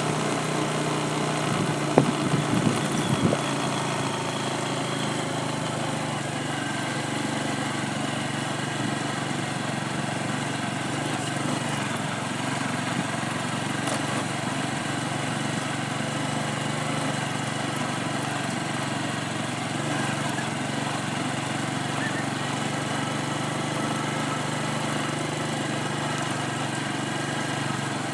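A vehicle's engine running steadily, with a few sharp knocks about two to three seconds in.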